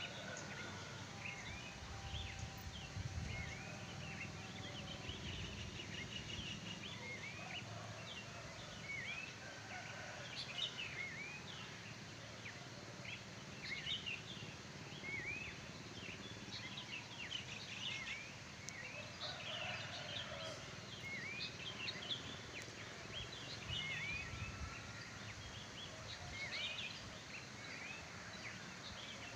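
Several wild birds chirping and calling, many short rising and falling notes scattered throughout, over a faint low background rumble.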